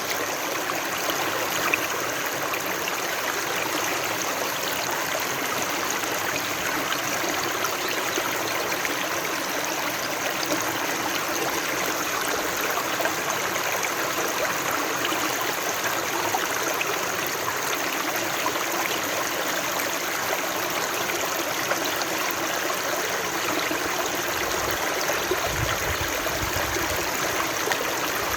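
Flowing water: a steady, even rush that does not change, with a brief low rumble near the end.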